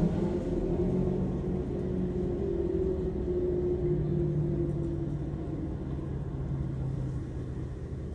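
Car engine running, heard from inside the cabin as a steady low hum with a few held tones; the pitch steps down slightly about halfway through.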